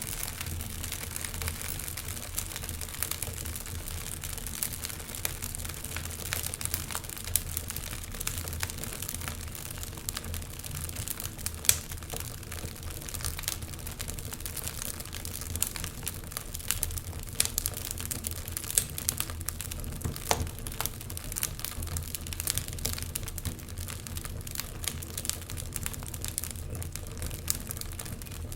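Wood fire crackling, with irregular sharp pops and snaps throughout, a few louder ones about 12 and 20 seconds in, over a steady low rumble.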